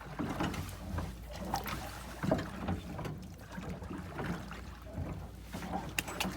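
Small boat on the water: irregular knocks and water splashes, with a steady low rumble underneath.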